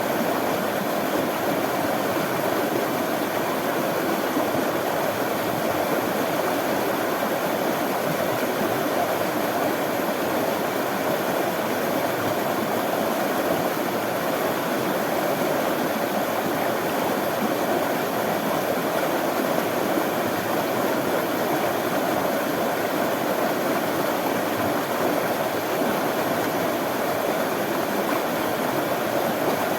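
Running water flowing steadily, an even rushing noise with no breaks or changes.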